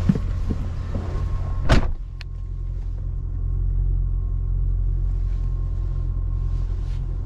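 Ford 5.4-litre three-valve V8 idling steadily, with a faint steady high tone alongside. A single sharp knock comes near two seconds in, after which the sound turns duller.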